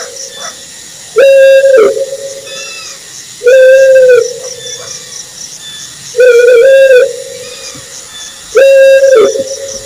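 An owl hooting: four loud hoots, each held at one low pitch for under a second, spaced about two and a half seconds apart, over a fast, faint, high-pitched pulsing in the background.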